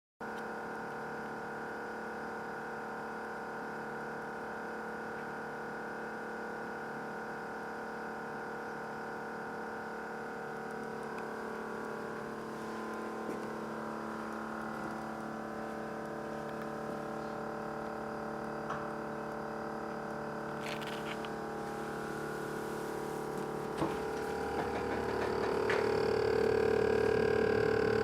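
GE Profile PSS26SGRC side-by-side refrigerator making a loud, steady humming whine from the freezer side, with several steady tones together. It grows louder over the last few seconds, with a couple of clicks partway through. The owner believes the noise comes from the freezer fan.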